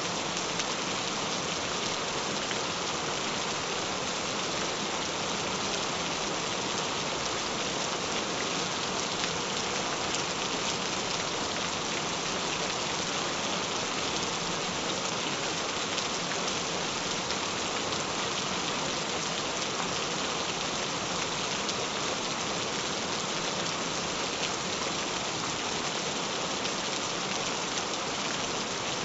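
Gentle, steady rain: an even hiss of falling drops.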